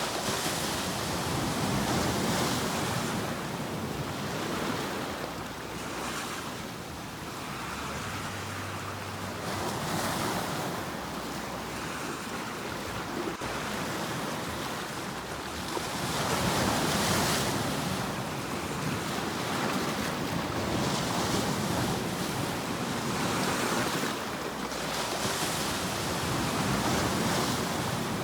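Ocean waves breaking and washing on a shore, a continuous surf that swells and eases every few seconds as each wave comes in.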